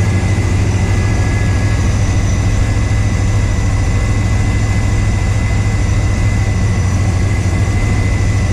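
Pickup truck engine idling steadily, with a thin steady high whine over a deep even hum, running after an oil cooler line replacement and oil refill.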